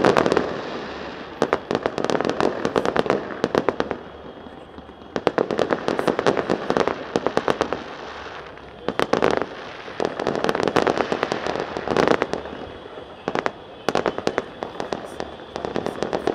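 Aerial fireworks going off in rapid volleys of crackling bangs. The bangs come in clusters a few seconds long, with brief lulls between them.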